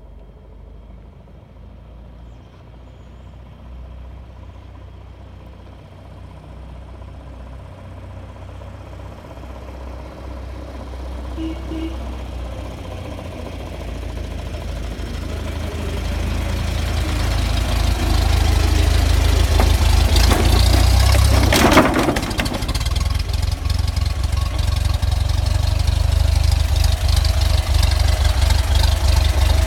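The four-cylinder overhead-valve engine of a 1919 Oldsmobile Economy truck running, getting steadily louder over the first eighteen seconds and then running steadily. A brief loud noise about twenty-two seconds in.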